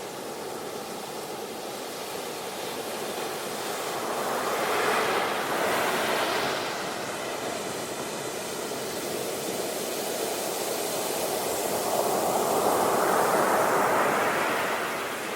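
Ocean waves breaking and washing on a beach, with two swells of surf noise, one about five seconds in and a louder, longer one near the end.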